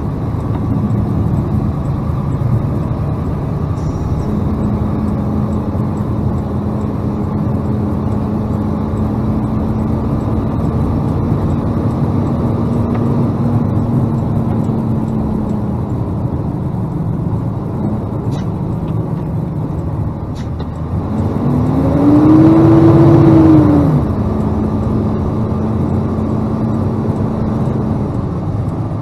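Freightliner plow truck driving, heard from inside the cab: a steady engine drone with road noise. About three-quarters of the way through, the engine revs up and back down over two or three seconds, the loudest moment.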